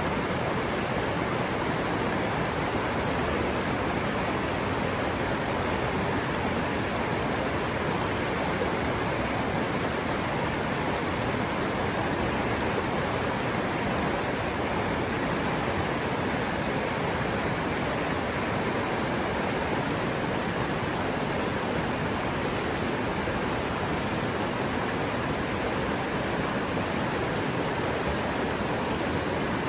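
Forest river water running in a steady, even rush, with no change in its flow.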